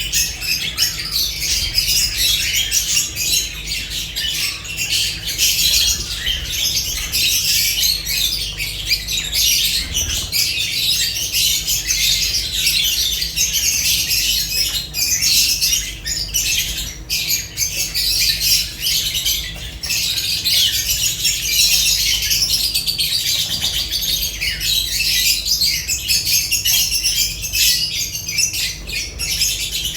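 A flock of lovebirds chattering continuously, a dense overlapping mix of rapid high-pitched chirps and squawks, with a low steady hum underneath.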